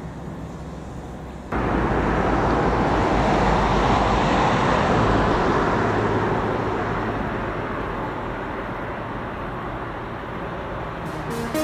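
A vehicle passing close by: a loud, even rushing noise that starts abruptly about a second and a half in, then fades slowly.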